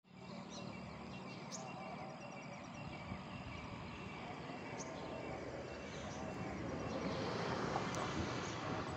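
Steady outdoor background noise, swelling slightly near the end, with a few faint, very short bird chirps scattered through.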